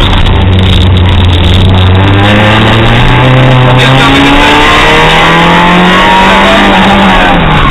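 Fiat Seicento's engine heard from inside the cabin, driven hard: the engine note holds, then climbs, dips suddenly at a gear change about four seconds in, climbs again, and falls near the end.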